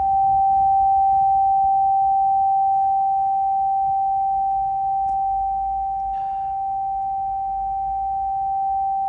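A loud, continuous electronic tone at one unwavering pitch inside a Haval H6 HEV's cabin. It is an unexplained fault: no warning light or connected device accounts for it.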